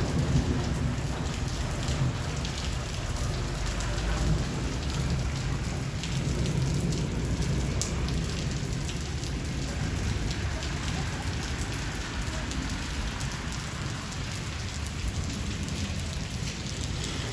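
Steady heavy rain with a low rumble of distant thunder underneath, which is strongest in the first half and gradually eases.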